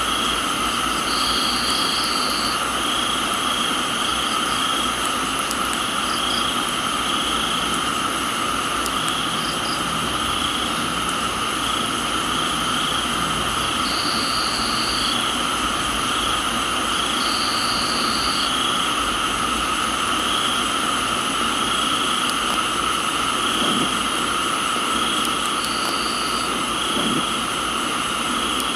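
Night chorus of crickets and other insects over a steady hiss of rain. Several insects hold a constant high drone, one chirps in a pulse about once a second, and a higher trill of about a second sounds a few times.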